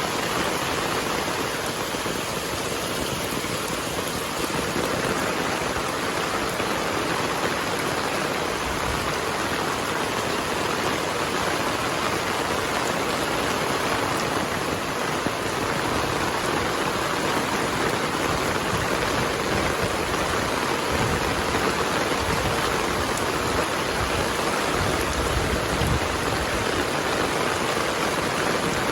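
Heavy rain falling steadily, a dense, even hiss of drops without a break.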